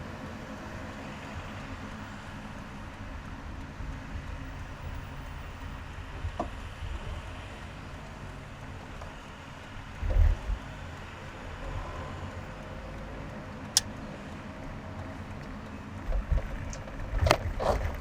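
A car driving, a steady low rumble of engine and road noise. A dull thump comes about ten seconds in, and several sharp clicks and knocks come near the end.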